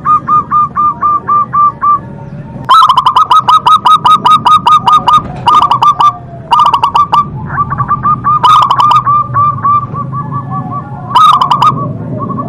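Zebra dove (local perkutut) singing: runs of short, rapidly repeated cooing notes, given in several phrases with brief pauses between them. The loudest phrases are harsh and distorted.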